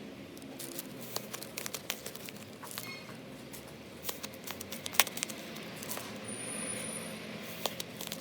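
Slime being squeezed and stretched by hand: an uneven run of small crackles, clicks and pops, with one sharper snap about five seconds in.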